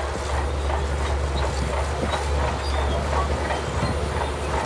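Shantui DH17C2 bulldozer's diesel engine running with a steady low drone.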